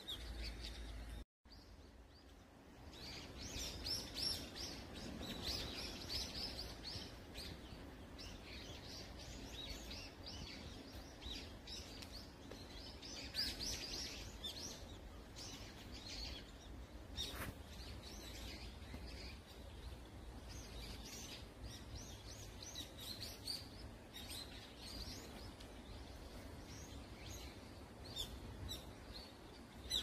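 A chorus of many small birds chirping and calling in the trees: many short, high calls overlapping one another, thickening about three seconds in, over a low steady rumble.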